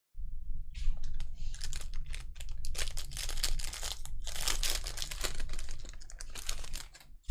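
Panini Prizm trading-card pack being torn open and its foil wrapper crinkled, with the cards rustling as they are handled: a dense run of crackling rustles and clicks that stops abruptly near the end.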